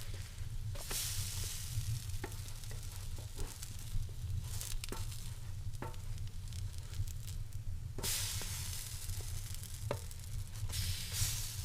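Potato pancakes (draniki) frying in oil in a pan: a steady sizzle with scattered sharp pops of spattering fat.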